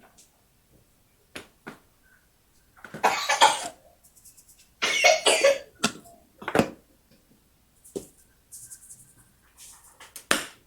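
Two short bouts of coughing, about three seconds in and again about five seconds in, with a few light knocks and clicks between them.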